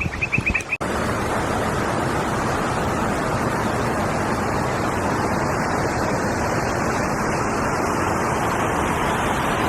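Frogs chirping in a fast run, cut off abruptly under a second in by the steady, loud rushing of a waterfall that fills the rest.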